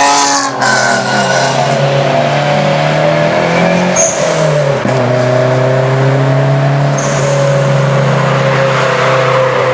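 Car engine under hard acceleration. Its note peaks and breaks off about half a second in, climbs gently again, drops around the five-second mark, and then runs at a steady cruising pitch.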